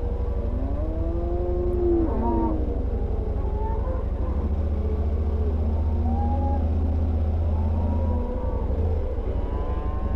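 A motorcycle engine runs slowly at low revs, swelling a little for a few seconds in the middle. Over it, cattle are lowing in several drawn-out calls that rise and fall in pitch and overlap one another.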